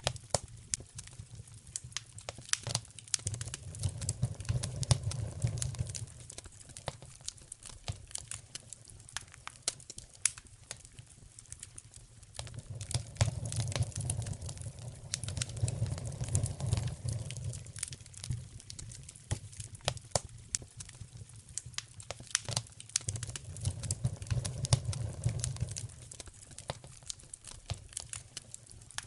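Wood fire burning in a fireplace, crackling with frequent sharp snaps and pops, under a low rumble that swells up and fades away three times.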